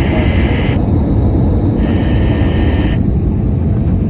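Steady roar of an Airbus A320's engines and airflow heard inside the cabin on approach, strongest in the bass. A band of radio hiss switches on and off twice over it, like an air-traffic-control channel opening with no one talking.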